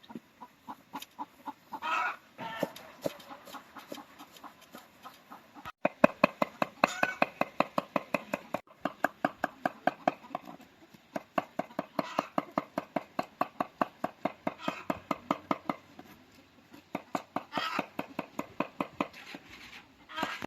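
Chickens clucking in a long, quick run of short clucks, with a few louder, higher calls now and then.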